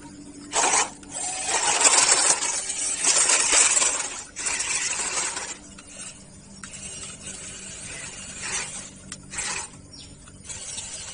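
Off-road RC car driving over rough ground: irregular bursts of tyres scrabbling and crunching, loudest in the first half and then coming and going more faintly.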